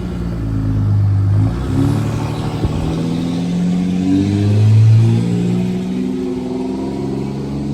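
Car engine revving, its pitch climbing and dropping several times, loudest about five seconds in.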